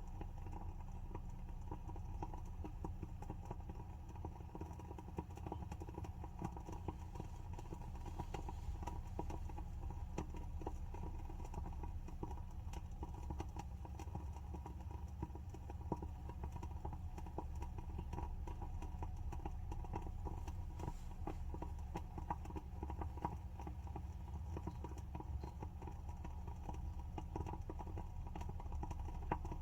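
Wooden wick of a WoodWick scented candle burning, crackling softly with many small irregular pops, over a low steady hum.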